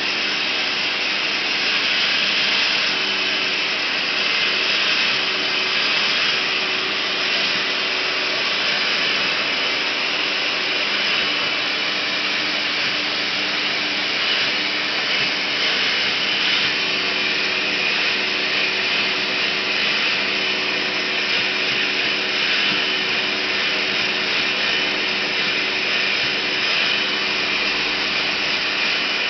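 Vacuum cleaner running steadily, its nozzle sucking loose shed fur off a cat's coat.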